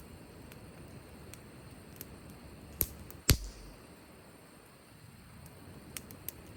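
Wood fire crackling, with scattered small ticks and pops and two sharp cracks about three seconds in, the second the loudest.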